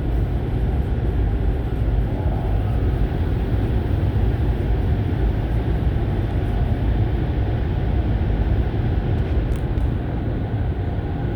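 Automatic car wash running over the car, heard from inside the cabin: a loud, steady rushing rumble of water and machinery on the car body.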